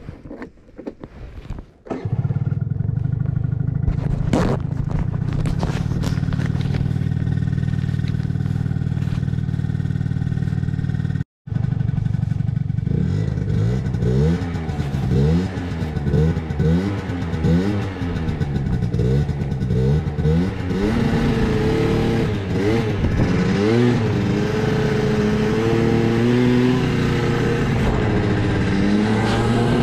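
Two-stroke engine of a Piaggio Vespa LX 50 scooter with a Yasuni Z sport exhaust starting about two seconds in and idling steadily. After a brief break it is revved again and again in short blips, rising and falling. Toward the end it runs at higher, climbing revs.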